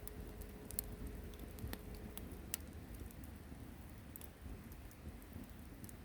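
Wood campfire burning, with scattered sharp crackles and pops over a low steady rumble.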